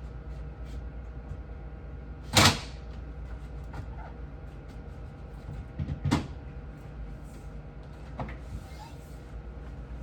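Two loud clunks, one about two and a half seconds in and one about six seconds in with a smaller knock just before it, and lighter clicks and knocks in between: objects and fittings being handled and set down while a refrigerator is cleaned. A steady low hum runs underneath.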